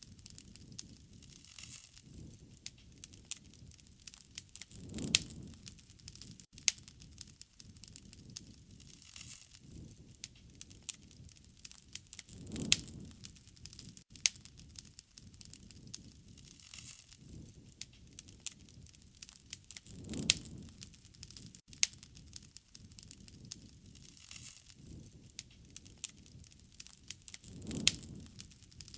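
Wood fire crackling, with frequent sharp snaps and pops over a quiet flame rustle, and a soft low swell about every seven and a half seconds.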